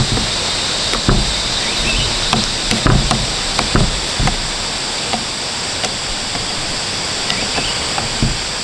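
Irregular knocks and taps of hand work on a lawn mower's parts, over a steady high hiss.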